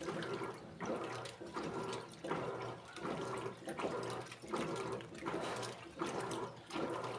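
Electrolux Essential Care 14 kg top-loading washing machine agitating its load: water and clothes sloshing in a regular swish, about once a second.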